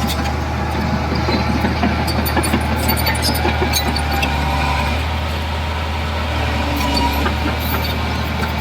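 Heavy diesel construction machinery running steadily, a low even engine drone with scattered light clicks and rattles over it.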